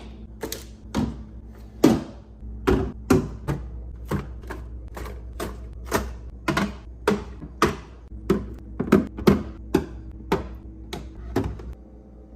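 A quick, irregular series of sharp clicks and taps, about two a second, from items being handled and set down while a refrigerator is arranged, over a low steady hum.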